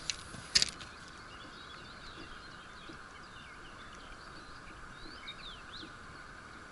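Small birds chirping and singing in the background over a steady outdoor hiss, with two short sharp clicks in the first second.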